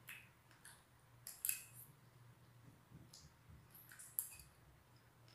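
Faint eating sounds of someone chewing a mouthful of stir-fried anchovies: a scatter of soft, sharp clicks and crackles, the loudest about a second and a half in.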